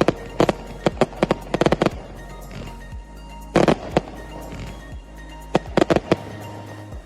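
Fireworks going off in clusters of sharp bangs and crackles, with a longer, louder burst about halfway through, over background music.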